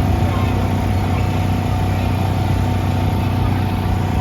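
A motor running steadily with a strong low hum, loud and unchanging, cutting in abruptly.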